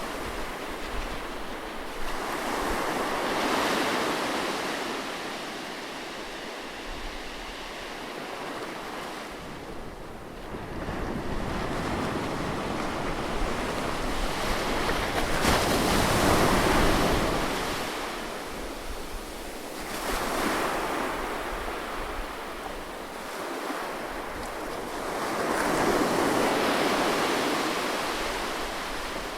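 Ocean surf on a beach: waves breaking and washing up the shore, the hiss swelling and fading in three long surges about ten seconds apart. The loudest wave comes in suddenly about halfway through.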